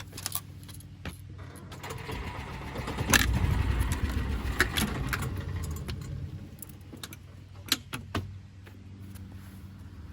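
A small engine running steadily, growing louder for a few seconds in the middle, with metallic rattling and several sharp clicks and knocks.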